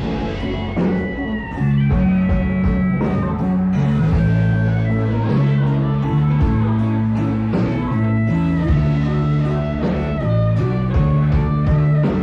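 Rock music with guitar, a bass line moving in held notes, and drum hits.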